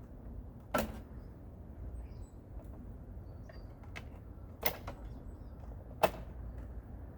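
Three sharp knocks or clacks, about a second in, near five seconds and about six seconds in, with a few faint ticks between, over a low steady rumble.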